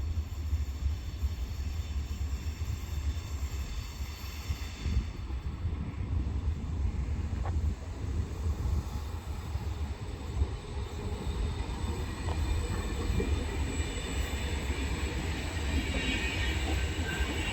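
Passenger train running through the station with a steady low rumble and a thin high whine. High-pitched wheel squeal builds near the end.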